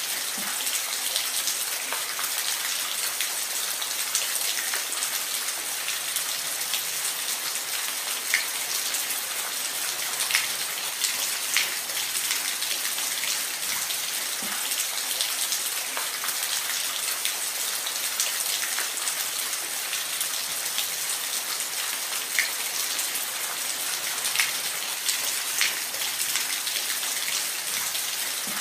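Steady rain falling, an even hiss with scattered sharper drops hitting a surface.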